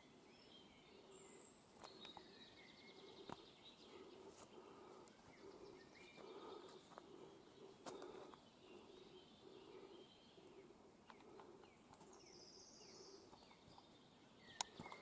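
Faint birdsong: several small birds chirping and trilling, with a few faint clicks.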